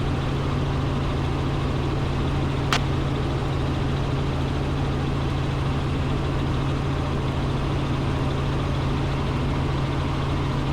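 Robinson R44 Raven II helicopter in cruise flight heard from inside the cockpit: its Lycoming six-cylinder piston engine and rotors make a steady drone, with one short click a little under three seconds in.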